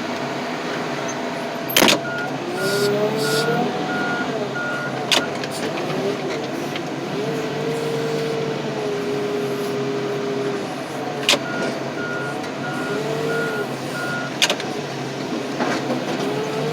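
Heavy machinery working while truck frames are loaded into a car crusher. An engine and hydraulics rise and fall in pitch over a steady hum. A backup alarm beeps in two short runs, and a few sharp metal clanks ring out.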